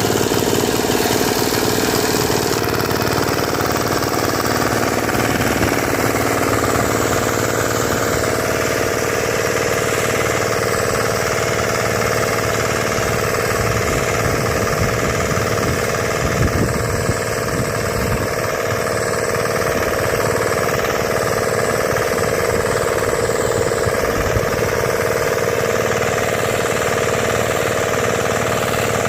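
The 5-horsepower engine of a Bharat nano tractor (mini power weeder/cultivator) running steadily with a rhythmic knocking chug.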